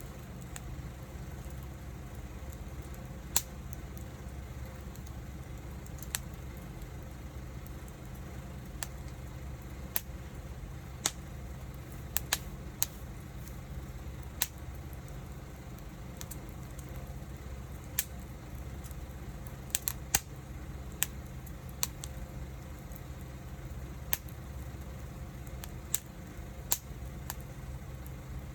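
Wood fire crackling: sharp, irregular pops every second or two over a steady low rumble.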